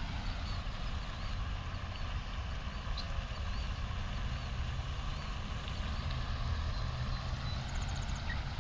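Steady low outdoor rumble, like distant traffic or wind. Over it, for the first few seconds, comes a faint run of short high chirps repeated about twice a second, from a small bird or gosling.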